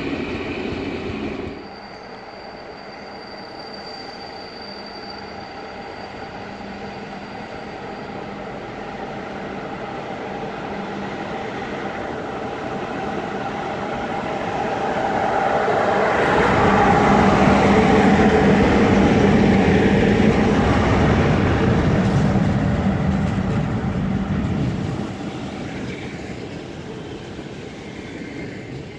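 An electric locomotive hauling passenger coaches comes through the station, with a thin high whine while it is still distant. The rolling noise builds to a loud pass-by lasting several seconds, then fades as the coaches roll by. It opens with the tail of another train's sound, cut off about a second and a half in.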